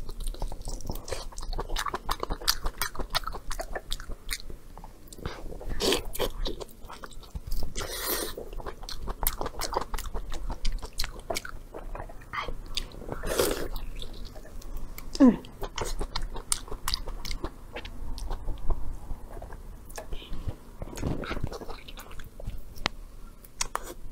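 Close-up chewing and biting of braised beef tripe dipped in chili oil: irregular wet smacks and clicks of the mouth working through the chewy meat, with short louder bites now and then.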